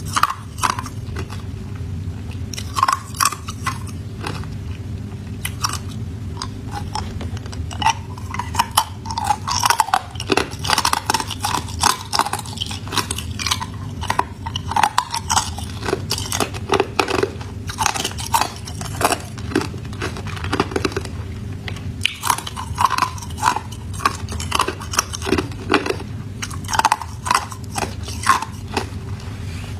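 A person biting and chewing ice, a steady run of irregular sharp crunches and crackles as the ice is broken between the teeth.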